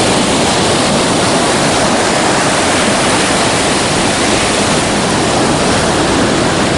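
Steady, loud rush of Pacific Ocean surf breaking on the beach.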